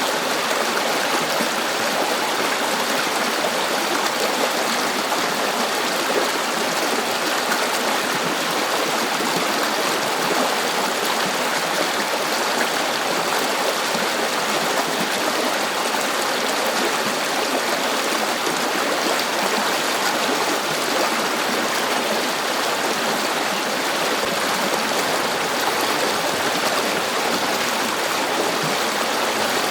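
River water flowing steadily over stones, a continuous, even rushing and babbling with no breaks.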